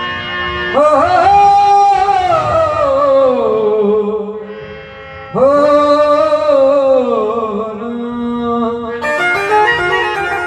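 Devotional bhajan music: two long, drawn-out sung phrases, each sliding slowly downward in pitch. Near the end an instrumental melody of short stepped notes follows.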